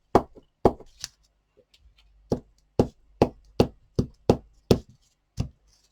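About a dozen sharp knocks on a tabletop: three in the first second, then a quick run of two to three a second in the middle, and one more near the end. A hand is patting glued paper scraps down onto a collage.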